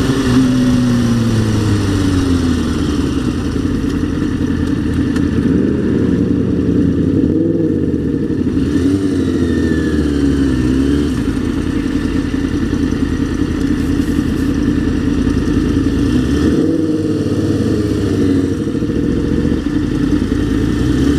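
Kawasaki ZX-6R 636 motorcycle's inline-four engine under way, its pitch rising and falling several times with throttle and gear changes, over a steady rushing noise.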